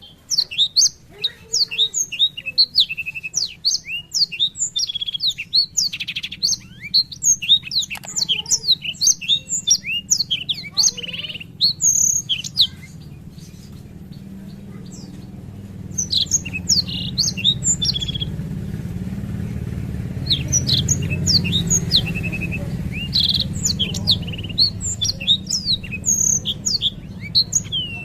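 Black-throated canary (blackthroat) singing a long, rapid twittering song of quick chirps and trills. It pauses for a few seconds near the middle, then resumes. A low steady hum runs underneath.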